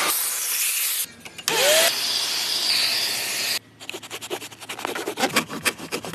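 Car cleaning: a steady hiss that cuts off and returns, then a quick run of rubbing and scraping strokes for the last couple of seconds.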